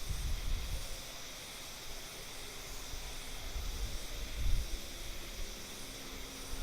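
Wind gusting on the microphone, as an uneven low rumble that eases off in the middle and comes back near the end, over a steady high hiss of outdoor background.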